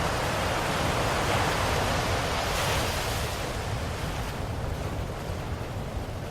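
Ocean waves washing ashore: a steady hiss of surf that swells around the middle and then slowly ebbs.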